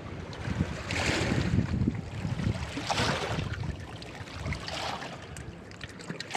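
Wind buffeting the microphone, with rushing water swelling up and dying away about every two seconds.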